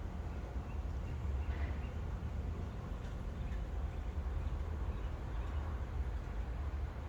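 Outdoor background: a steady low rumble with a few faint bird chirps, one about a second and a half in.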